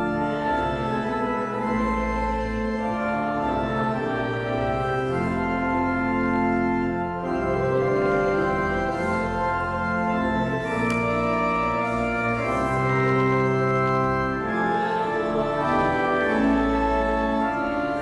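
Organ playing slow, sustained chords over deep held bass notes, changing chord every second or two.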